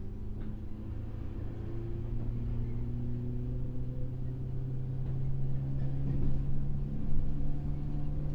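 Running sound of a JR 103 series electric train's motor car: the MT55 traction motors and gears hum, with the hum rising slowly in pitch and growing a little louder as the train picks up speed, over the rumble of the wheels on the track.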